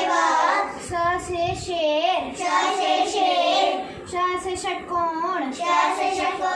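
A young girl's voice chanting Hindi alphabet letters with their example words in a sing-song way.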